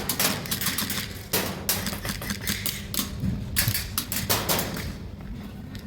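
Sharp clicks and snaps in irregular quick clusters, typical of airsoft guns firing short bursts. A steady low hum runs under them.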